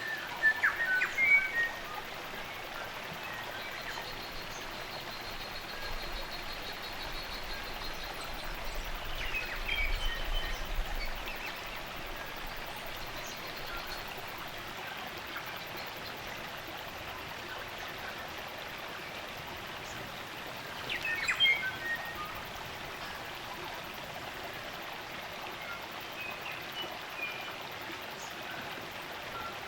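Spring-fed stream running steadily, with native forest birds calling over it: short bursts of chirping calls about half a second in, around ten seconds and around twenty-one seconds, and a thin, high, steady note a few seconds in.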